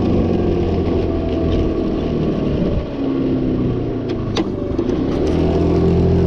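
GY6 50cc single-cylinder four-stroke scooter engine running at a fast idle, its pitch sagging about three seconds in and picking back up a couple of seconds later. The cold engine does not hold a steady idle, which the owner takes for an idle setting that needs adjusting. A single sharp click about four seconds in.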